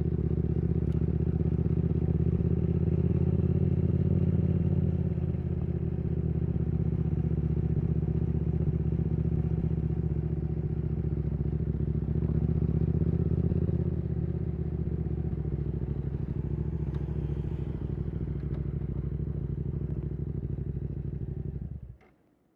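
Yamaha R7's CP2 parallel-twin engine running steadily through a Yoshimura R77 exhaust at a low, even engine speed. The sound cuts off abruptly near the end.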